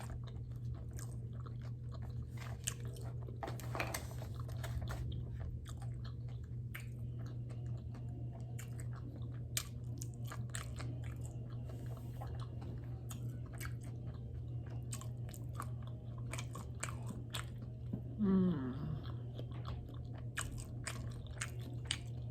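Close-up chewing of sushi, with many small wet mouth clicks and crunches over a steady low hum. About eighteen seconds in there is a brief, falling, hummed voice sound.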